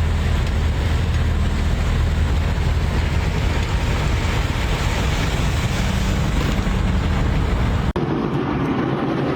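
Steady vehicle noise: a low engine hum under a rush of road and wind noise. It breaks off about eight seconds in and switches to a thinner rush with less of the low hum.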